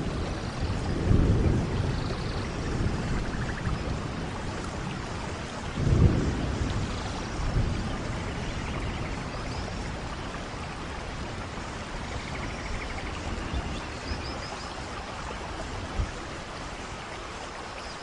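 Steady rain falling, with low rolls of thunder, the strongest about a second in and about six seconds in, then dying away.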